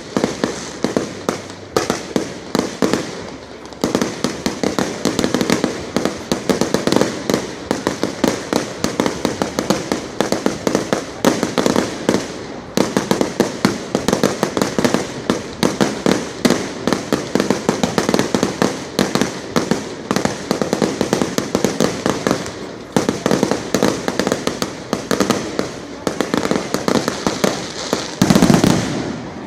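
Fireworks display: a dense, rapid run of bangs and crackles, several a second, with a louder, deeper boom near the end.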